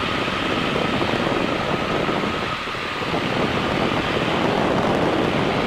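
Helicopter in flight: a steady rushing noise of rotor and engine, with a faint steady high tone running through it.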